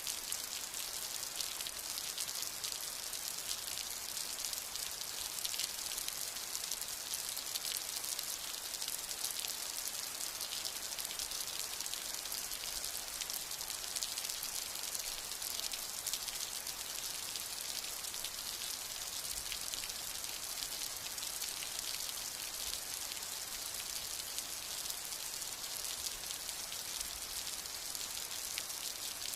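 Steady rain: an even hiss made of countless fine drop ticks, with no thunder.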